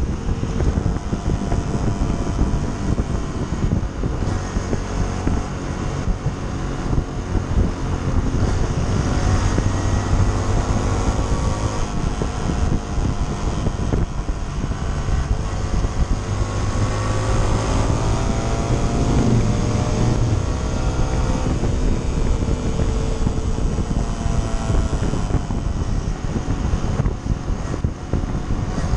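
Honda CT125 Trail 125's single-cylinder four-stroke engine running under way, its pitch rising and falling with speed.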